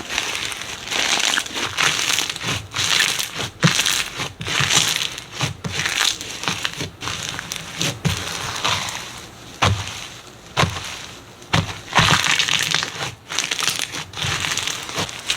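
Slime being squeezed and pressed by hand, a continuous run of irregular crackles, squelches and sharp clicks.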